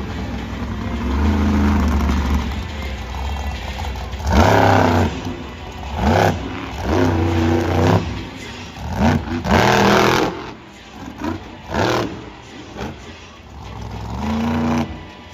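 Monster truck engine revving hard in repeated bursts, the pitch sweeping up and falling back, loudest about four seconds in and again near ten seconds.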